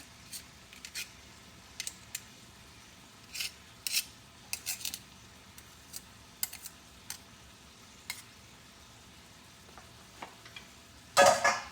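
Scattered light taps and scrapes of a kitchen utensil against cookware, with one louder clatter near the end.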